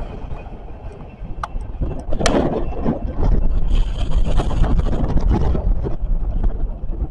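A train rumbling past with clanks and short squeals, under strong wind buffeting the microphone, which gets heavier midway.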